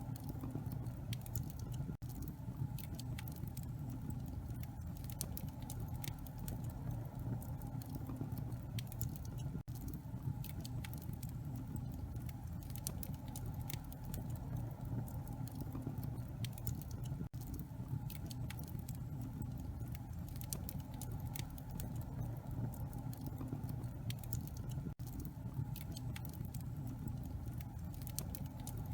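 Wood fire burning in a fireplace: a steady low rumble of flames with many small crackles and pops, broken by a brief gap every seven or eight seconds.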